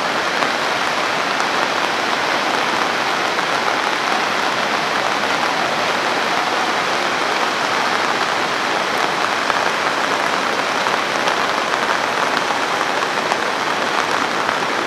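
Steady, even hiss of heavy rain mixed with the rush of the swollen river in flood, unbroken throughout.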